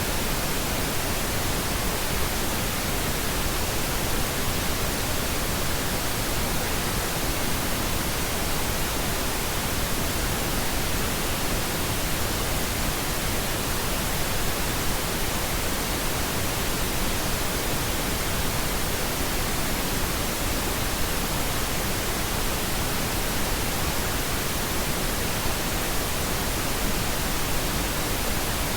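Steady pink noise: an even, unbroken hiss spread across the whole range, softer in the highs than white noise, generated as a sleep and relaxation sound.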